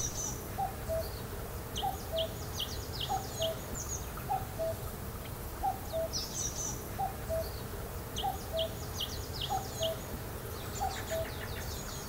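Forest birdsong: one bird repeats a low two-note call, high then lower, over and over just under once a second, while another small bird sings short runs of quick high chirps.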